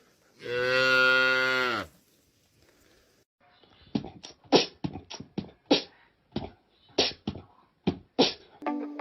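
A cow's single long moo, falling slightly in pitch at its end. A second or so later comes a run of sharp, irregular mouth-percussion hits like beatboxing.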